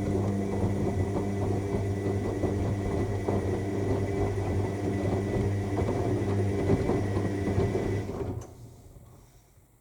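AEG 7000 Series washing machine's drum motor turning the drum through a tumble in the main wash, a steady hum with a faint high whine and the wet load sloshing. The motor stops about eight seconds in.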